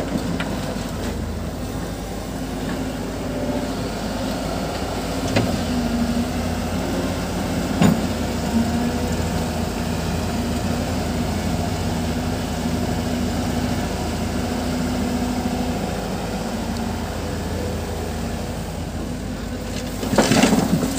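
Diesel engine of heavy construction machinery running steadily, with a few short sharp knocks around the middle.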